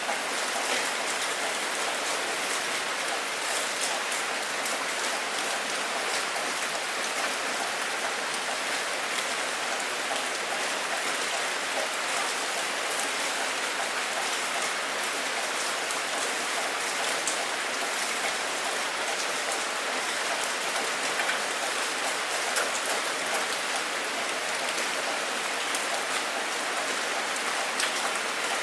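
Steady rain falling, a dense even hiss with fine patter of drops on a surface.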